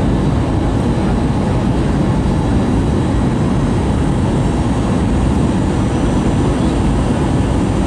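Steady rumble of an Airbus A320 in flight, engine and airflow noise heard from inside the passenger cabin, unchanging throughout.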